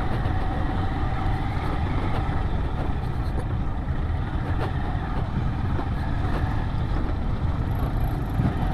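Yamaha XT 600E's air-cooled single-cylinder engine running steadily as the motorcycle rides, with a dense low rumble.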